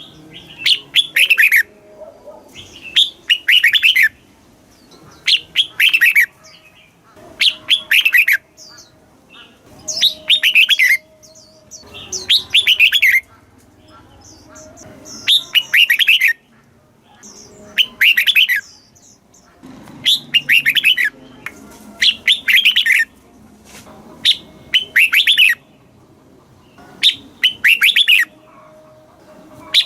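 Red-whiskered bulbul singing: short phrases of quick falling notes, repeated about every two seconds.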